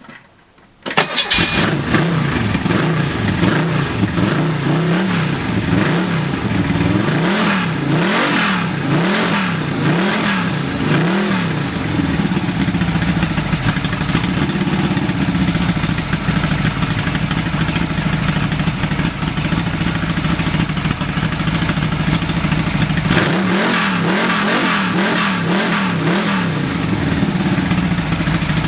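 Rebuilt 1760cc VW Type 1 air-cooled flat-four engine with a Weber 32/36 carburettor fires up about a second in on its first run after a full rebuild, then is revved up and down repeatedly. It settles to a steady run for several seconds, then is revved up and down again near the end, through a baffled exhaust that is rather loud.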